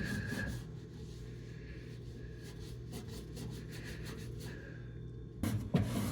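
Faint scrubbing of a rag against the stained inside walls of a microwave, over a steady low hum, with a short cluster of louder knocks or scrapes near the end.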